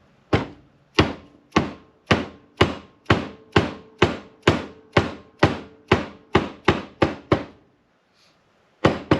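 Hammer strikes tapping new seals into an LS engine's valley cover: a steady run of about fifteen sharp knocks, roughly two a second and a little quicker toward the end, each with a short metallic ring. After a pause, two more strikes near the end.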